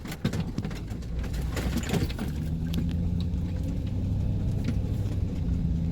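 Vehicle engine running with a steady low rumble, with scattered clicks and rattles in the first two seconds.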